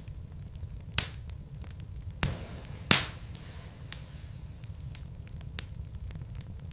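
Wood fire burning in a fireplace: a low steady rumble of the flames with scattered crackles and sharp pops of burning logs, the loudest pops about one, two and three seconds in.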